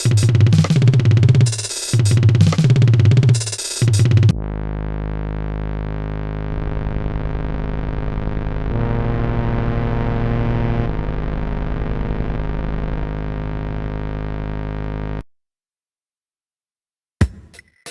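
Electronic music: a pulsing drum-machine beat over a heavy synthesizer bass, giving way after about four seconds to a long held synthesizer chord that cuts off suddenly. After a short silence, sharp clicks come in near the end.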